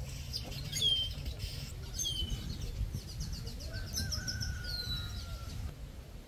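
Wild birds calling: sharp downward-sweeping chirps repeated every second or so, a quick run of short high notes in the middle, and a longer falling call, over a steady low background rumble.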